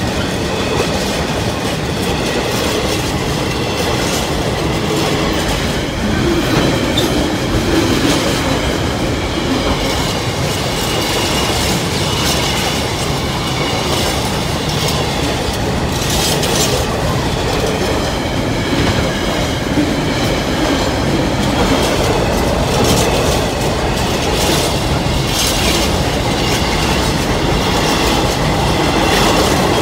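Container flat wagons of a freight train rolling past at close range: a steady loud rumble with the wheels clacking over the rail joints and a faint high squeal from the wheels.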